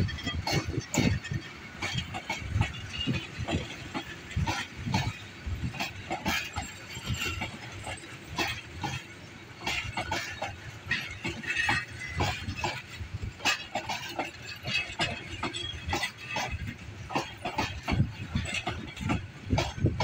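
Rangpur Express intercity passenger coaches rolling past on the rails, their wheels clattering over the track in a steady run of irregular clicks and knocks over a low rumble.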